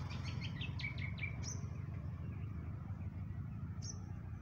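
Small birds chirping: a quick run of about eight short chirps in the first second or so, then two brief high calls, one at about a second and a half and one near the end, over a steady low rumble.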